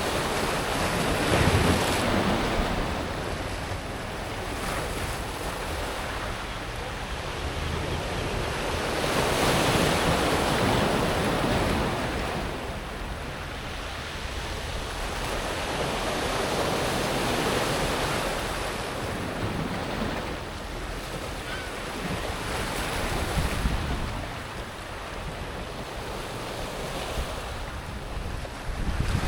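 Sea waves breaking and washing over a pebble beach, rising and falling in slow surges about every eight to nine seconds.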